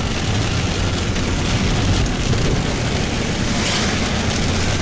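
Steady low rumble and hiss of a vehicle on the move, heard from inside the cabin.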